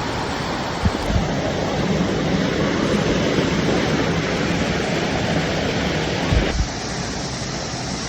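Steady rushing of water, with a few low thumps about a second in and again near the end. The rushing changes abruptly about two-thirds of the way through.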